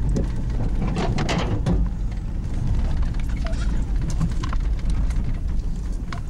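GMC Jimmy driving slowly over a rough trail, heard from inside the cab: a steady low engine and drivetrain rumble, with a cluster of knocks and scrapes about a second in and scattered knocks after.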